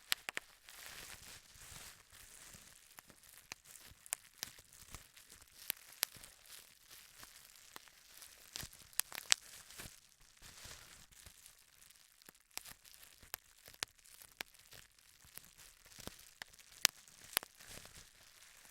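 Bubble wrap being popped: irregular sharp pops, a few a second and some louder than others, over a steady crinkling of the plastic sheet being handled.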